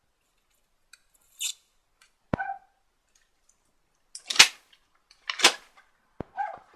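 Handling of small tools and a bottle of insect repair glue: a few sharp clicks and taps, one ringing about two seconds in, and two short, louder scraping rustles in the second half.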